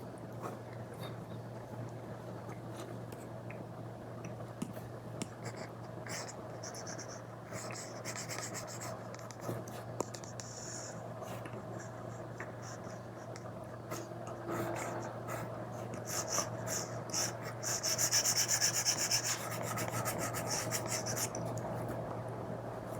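Stylus tip rubbing and scratching across a tablet screen fitted with a paper-like film, in short strokes and light taps, as in drawing. About three-quarters of the way through comes a louder run of quick, hissing strokes. A steady low hum sits underneath.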